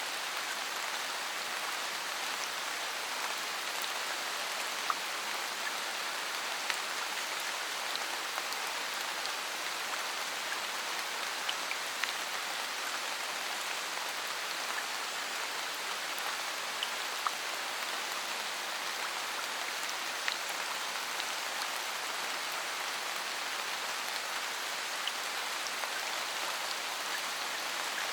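Steady rain falling, an even hiss with scattered individual drops ticking sharply now and then.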